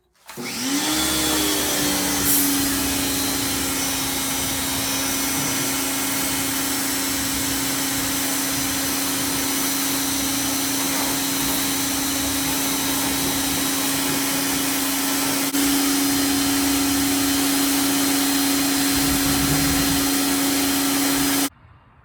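Pressure washer running: its motor spins up at the start to a steady hum over a loud hissing spray. It gets a little louder about 15 seconds in and cuts off suddenly near the end.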